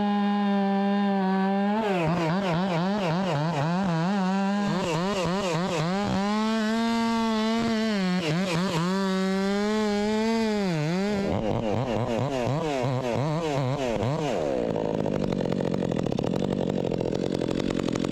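Two-stroke chainsaw running at full throttle, cutting through a section of honey locust trunk. The engine pitch sags and recovers again and again as the bar bites, and it turns rougher and noisier over the last few seconds before the cut finishes.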